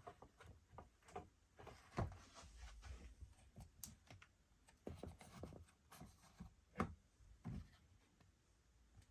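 Faint handling noise: scattered clicks and light knocks with brief rustling between them, the sharpest knocks about two seconds in and near seven seconds in.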